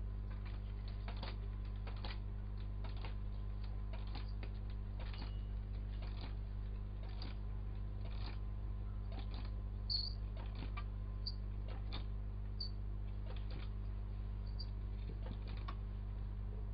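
Homemade can-built Stirling engine with a big flywheel running, giving light clicks and ticks roughly once a second over a steady low hum.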